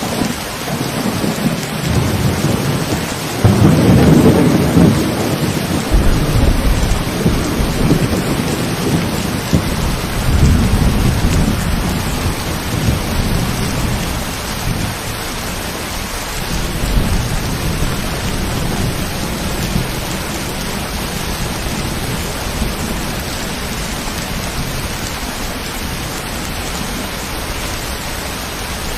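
Steady rain with a long roll of thunder. The rumble breaks in about three and a half seconds in, is loudest over the next couple of seconds, swells a few more times and fades out past the middle, leaving only the rain.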